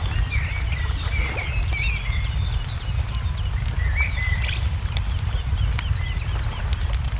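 Wood fire crackling, with sharp pops scattered over a steady low rumble, while small birds chirp in short wavering phrases.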